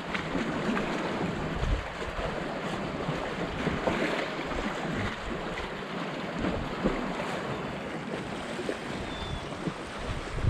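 Sea waves washing against rocks, with wind buffeting the microphone in irregular low gusts.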